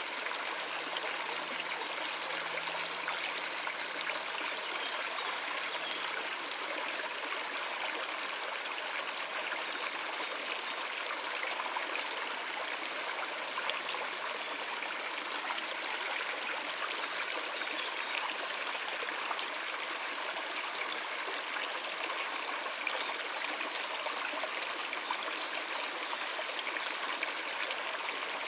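A shallow river running steadily over rocks, an even rushing and trickling.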